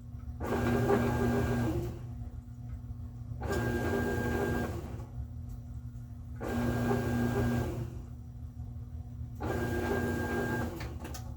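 GE top-load washer's motor running in four short pulses, about one second on and two off, over a steady low hum: the drive cycling on and off after the tub replacement, before the spin.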